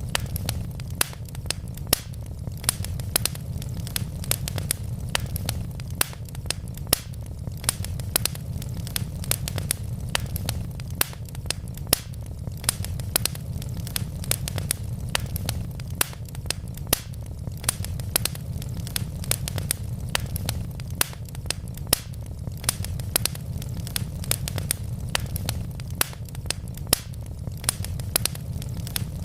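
Wood logs burning in a fireplace, crackling with many quick sharp pops over a steady low rumble.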